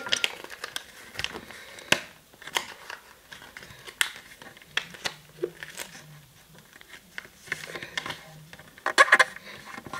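A sheet of paper being folded and creased by hand: scattered short rustles and crinkles as it is handled and pressed flat, loudest about a second before the end.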